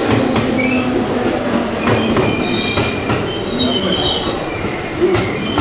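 A train moving along the platform, its steel wheels squealing in high, thin tones from about two seconds in, over a steady rumble with clicks and clatter.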